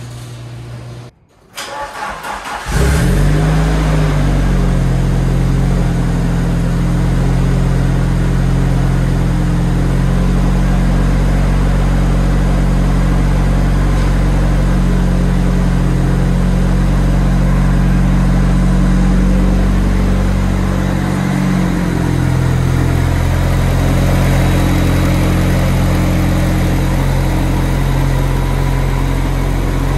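Nissan S13's turbocharged SR20DET four-cylinder engine cranking and catching about two to three seconds in on a cold start, then idling steadily, with a brief dip in engine note around twenty seconds in.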